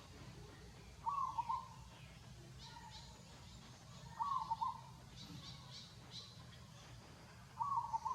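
A bird calling, a short call of a few quick notes repeated three times, about every three and a half seconds, with faint higher chirps in between.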